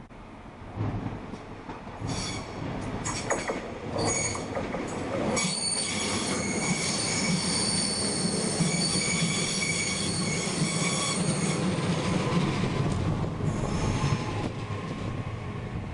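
Train wheels squealing against the rails as a train runs through, several high screeching tones together that set in about two seconds in and die away about four seconds before the end, over a low rumble. A quick run of clicks from the wheels over rail joints comes as the squeal begins.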